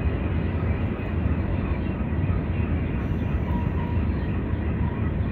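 Freight train cars rolling past on the rails: a steady low rumble of wheels on track.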